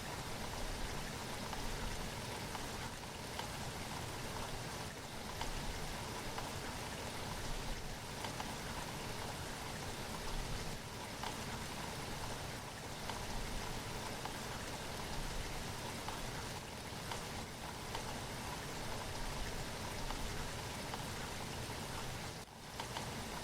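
Steady rainfall: an even hiss with many small drop ticks, dipping briefly near the end.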